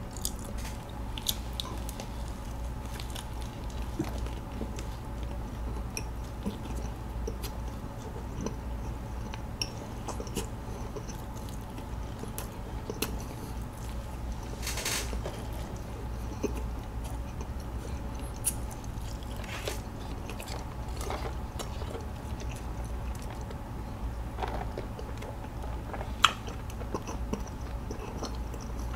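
Close-miked chewing of a mouthful of sausage pretzel: soft, wet mouth clicks and smacks over a steady low hum. A short rushing noise comes about halfway through.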